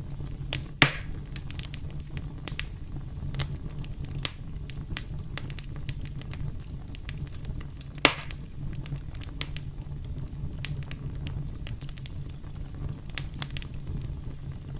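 Campfire crackling: a steady low rumble of burning wood with frequent sharp pops and snaps, the two loudest about a second in and about eight seconds in.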